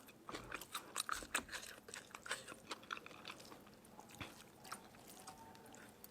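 A person chewing crunchy food close to the microphone: a dense run of short, crisp crackles that thins out after about three seconds.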